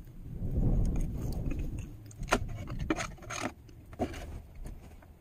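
Someone eating: a low rubbing, handling noise, then about four sharp crunches a little more than halfway through.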